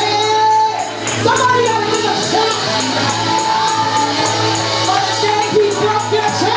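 Gospel worship music: singing voices over a sustained low accompaniment and a steady percussion beat.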